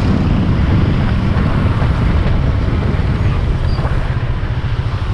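Habal-habal motorcycle taxi's engine running while riding along, with wind buffeting the microphone.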